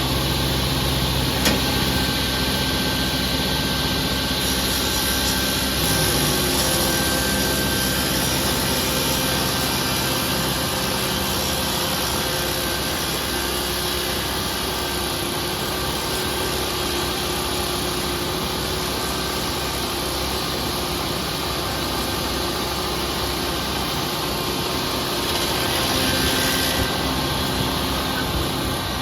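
Engine of heavy demolition machinery running steadily, a continuous hum under a dense, even noise.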